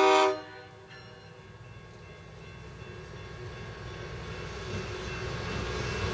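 Diesel locomotive's air horn cuts off just after the start. Then the locomotive's engine and the hopper cars' wheels rumble on the rails, growing steadily louder as the train passes close by.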